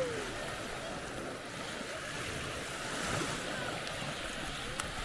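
Sea surf washing steadily onto a sandy beach.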